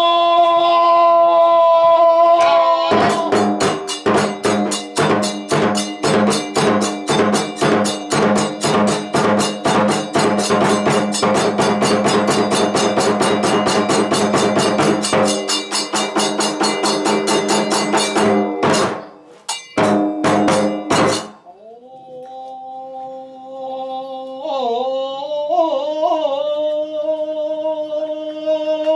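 Kagura accompaniment music: drum and hand-cymbal strokes beat rapidly, several a second, over a held melody. About 21 seconds in, the percussion stops and the sustained melody carries on alone, wavering in pitch.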